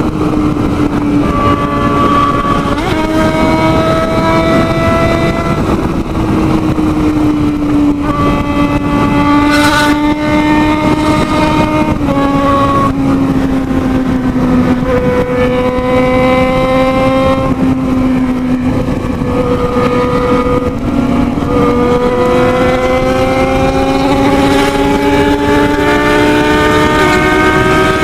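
Motorcycle engine running hard at sustained high speed, its note holding high with a few small steps in pitch and a slow rise near the end, over steady wind rush.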